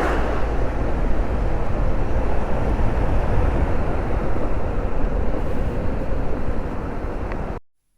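Motorcycle on the move: steady engine and road rumble with wind buffeting the microphone, cutting off suddenly near the end.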